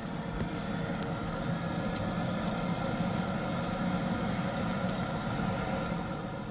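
Biasi combi boiler starting up and running with a steady mechanical hum and a faint high whine, two light clicks early in the run. The hum dies away near the end.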